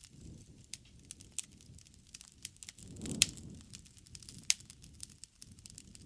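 Wood campfire burning: scattered crackles and sharp pops over a low flutter of flame, with two louder pops about three and four and a half seconds in.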